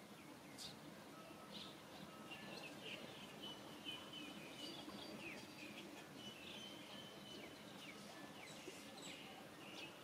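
Faint outdoor background with scattered short high chirps and whistles of small birds.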